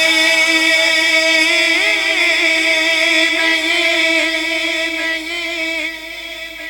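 Male naat reciter singing unaccompanied, holding one long note with wavering melismatic ornaments on the middle of a sung line. The note fades away near the end.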